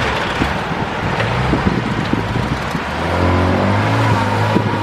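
Heavy earthmoving machine's engine running, with scattered knocks and clanks. About three seconds in, the engine gets louder with a steady deep note.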